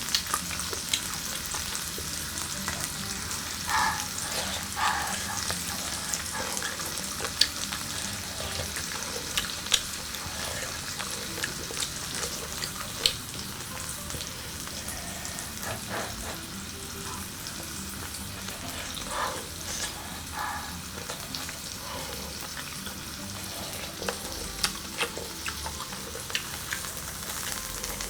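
Food sizzling on an electric grill: a steady hiss of hot fat with frequent sharp spitting pops, and a few short soft knocks.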